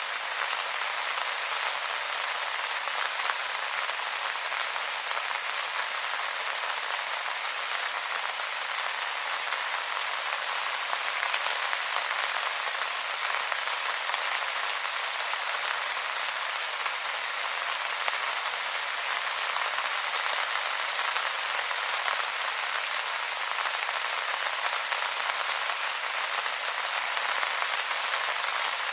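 Steady rain falling on wet leaves, a dense patter of many small drops.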